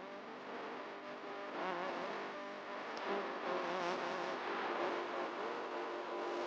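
A male voice chanting Quran recitation, long drawn-out melodic lines with wavering ornamented turns, over a steady rushing background noise.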